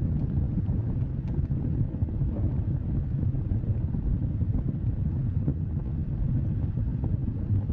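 Fire burning with a steady low roar and a few faint, scattered crackles.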